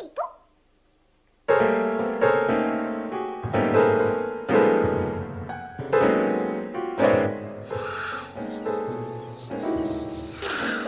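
Piano playing a slow run of struck chords, each left to ring and fade, starting about a second and a half in. It is preceded by a brief high squeaky vocal sound at the very start.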